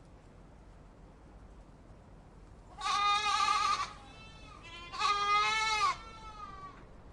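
Goat bleating twice, each call about a second long with a wavering pitch; the first starts about three seconds in.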